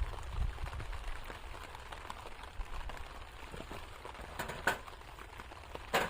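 Steady patter of rain with many small ticks, and two sharper clicks, one near the end.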